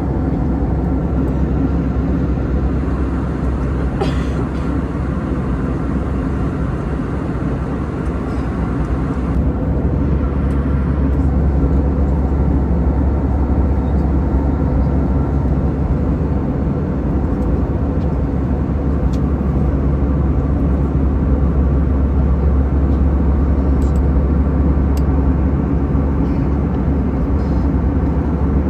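Airbus A320 cabin noise: a steady, deep drone of the CFM56 engines and airflow. The low rumble grows a little stronger about a third of the way through, with a few faint clicks.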